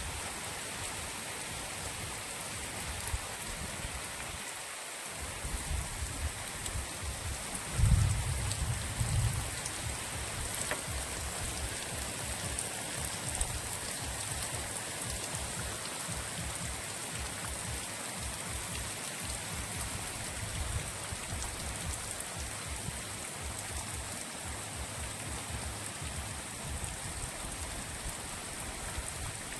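Steady rain falling, an even hiss. Irregular low rumbles run underneath, the loudest about eight seconds in.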